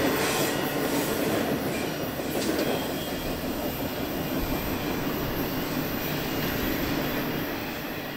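Double-stack intermodal freight train's last well cars rolling past on the rails and moving away, a steady rumble of wheels on track that slowly fades.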